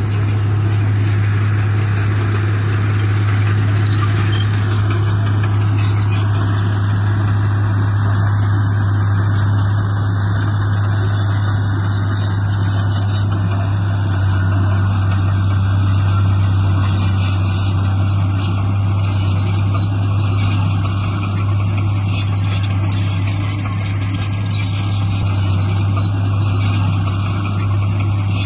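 Diesel engine of heavy earthmoving machinery running steadily, with a constant low drone.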